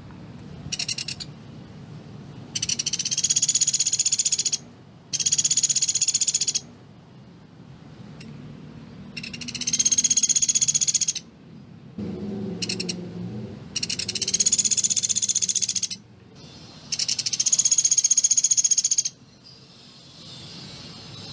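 Pelatuk beras bird giving a series of rapid, tightly spaced rattling trills, each lasting about two seconds, five long ones with a couple of short bursts between them.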